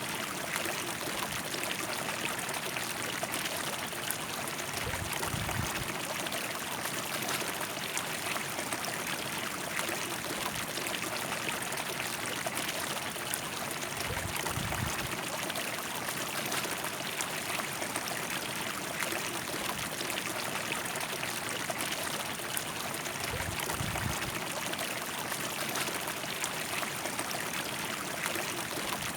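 A river flowing: a steady, even rush of water. Three brief low rumbles come about nine seconds apart.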